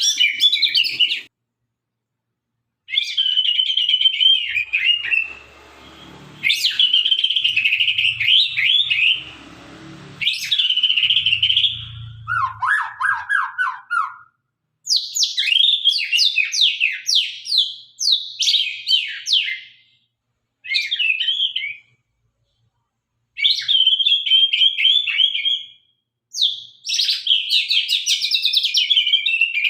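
White-rumped shama (murai batu, Sabang line) singing in sharp, rapid phrases of whistles and trills. The phrases come in bursts of one to three seconds with short pauses between them, and one phrase a little before halfway drops lower in pitch.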